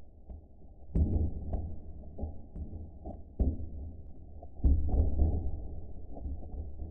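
Wood fire in a fireplace crackling and popping over a low rumble, slowed to half speed, with a cluster of loud pops about two thirds of the way in.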